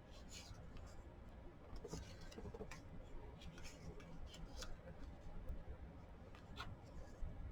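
Faint paper handling: scattered light taps and short rustles as paper pieces are shifted around on a journal page.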